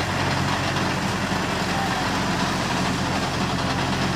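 Swaraj tractor's diesel engine running steadily at a constant speed.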